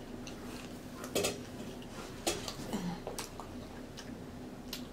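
Close-miked chewing: a few separate wet mouth clicks and lip smacks spread across a few seconds, with a faint steady hum underneath.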